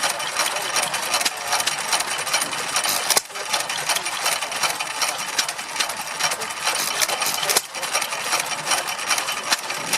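Vintage stationary engines running, a busy rapid mechanical clatter and ticking, with brief breaks about three seconds in and again about seven and a half seconds in.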